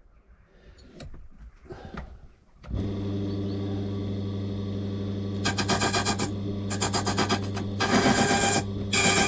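Key-cutting machine switched on, its motor starting with a steady hum a little under three seconds in, then its cutter grinding into a steel lever key blank in short touches of about a second each, three and a bit. The blank is only lightly touched to the cutter and moved along, as the blade has no side cut.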